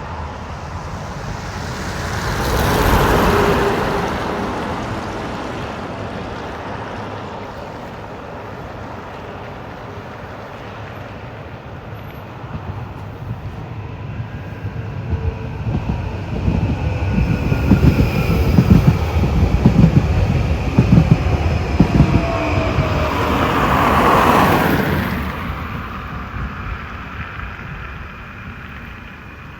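Elron passenger train running on the rails. It swells about three seconds in, settles to a steady rumble, then gives a stretch of low rhythmic thumping from its wheels in the middle, with a faint high whine. It swells again near the end and fades out.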